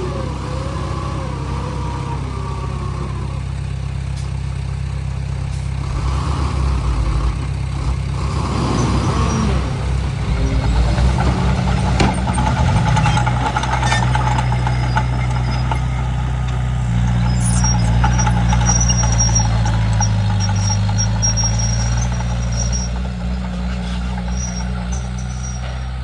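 Komatsu D31P bulldozer's diesel engine running steadily while the machine works. It gets louder about six seconds in and swells again later, with a few short clicks.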